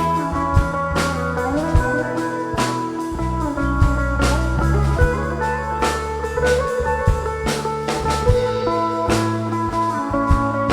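Live rock band playing an instrumental passage: guitars carry the melody over bass and a drum kit keeping a steady beat with regular cymbal hits.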